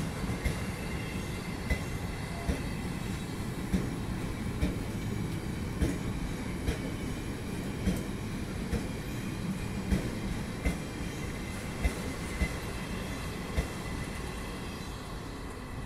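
Loaded double-deck car-carrier freight wagons rolling past at low speed, their wheels clicking over the rail joints about once a second over a steady rumble, with a faint wheel squeal. The sound gets a little quieter near the end as the last wagons go by.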